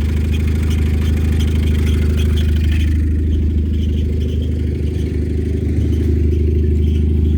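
Citroen C4 Grand Picasso 1.8i four-cylinder petrol engine running steadily at idle, with a faint fast ticking above the engine note that fades about three seconds in.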